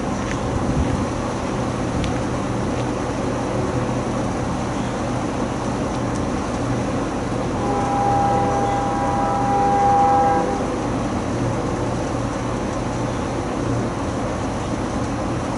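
Locomotive horn sounding one blast of about three seconds, several notes together as a chord, about halfway through, over a steady low rumble.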